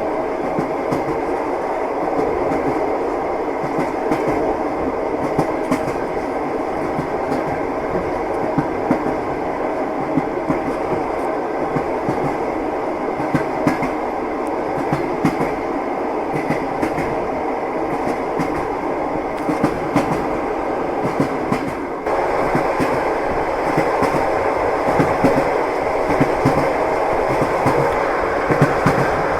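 Passenger train running, its wheels clattering steadily over the rail joints, heard from inside the carriage. About 22 seconds in, the sound shifts abruptly to a slightly louder, brighter clatter.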